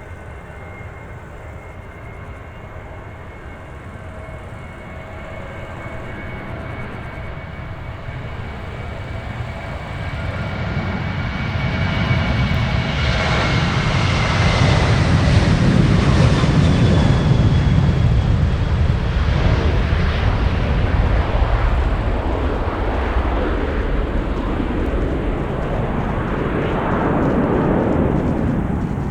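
Jet airliner passing close by. Its engine whine grows louder and drops in pitch as it goes past about halfway through, then gives way to a loud, lingering engine roar.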